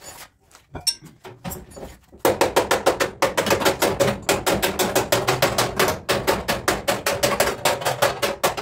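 Hammer blows on car body sheet metal: a few scattered knocks, then from about two seconds in a fast, steady run of about six ringing blows a second, as in panel beating out a dent.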